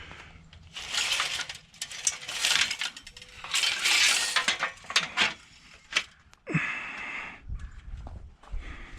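Scrap being handled and tossed around: repeated rattling and scraping bursts with sharp metallic clinks between them, and a dull thud about three-quarters of the way through.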